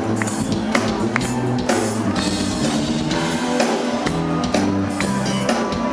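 Live band music: electric guitar, bass and drum kit playing an upbeat number with a steady beat, during a soundcheck.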